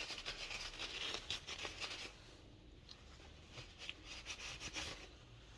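Faint clicking and rubbing of small parts being handled and unscrewed while a diesel heater is dismantled, in two spells with a quieter gap in the middle.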